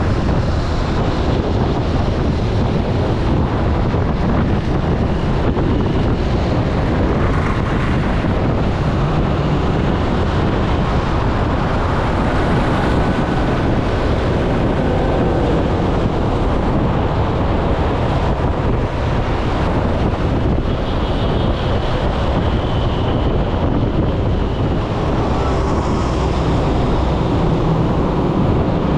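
Steady, loud wind buffeting the microphone over continuous vehicle noise, as heard while riding through traffic.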